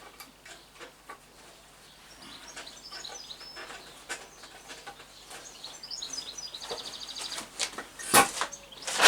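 Small birds chirping, with a quick high trill about seven seconds in, over scattered light clicks; a sharp knock comes a little after eight seconds.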